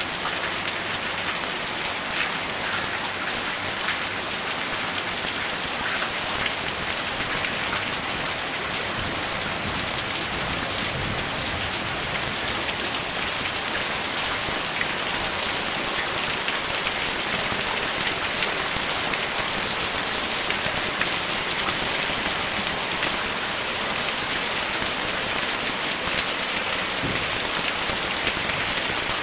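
Very heavy rain pouring down steadily, a dense even hiss with small drop impacts scattered through it.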